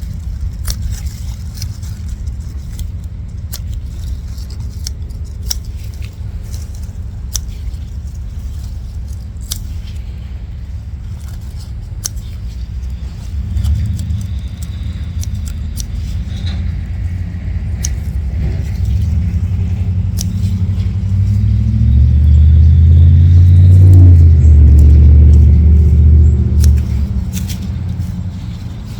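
Low rumble of road traffic, with one vehicle passing close and loudest about three quarters of the way through, its pitch bending as it goes by. Scattered sharp clicks and rustles from plants being handled and cut.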